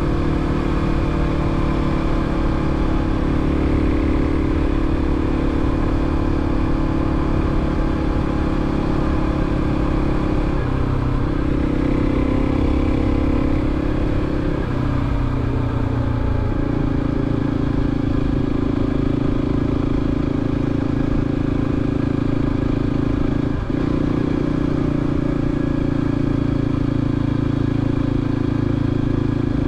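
2023 Kawasaki KLX300's single-cylinder four-stroke engine running through a Delkevic 14-inch slip-on exhaust on a street ride, a steady exhaust note that steps in pitch a few times between about ten and seventeen seconds in and dips briefly near the end.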